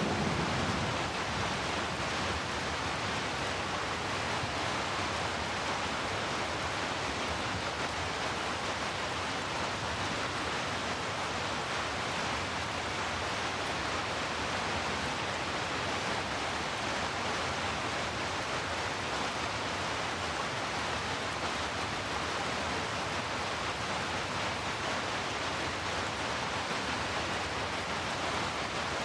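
Steady heavy rainfall, a dense, even hiss. A low rumble fades out in the first second.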